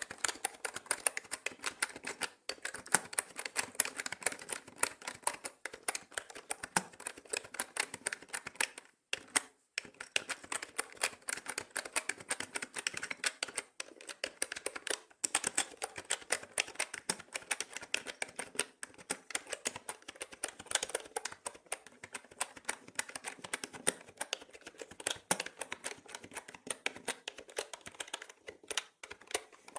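Fast, continuous typing on a mechanical keyboard: a dense run of sharp key clicks, with a brief break about nine seconds in. The sound is processed with an 8D effect.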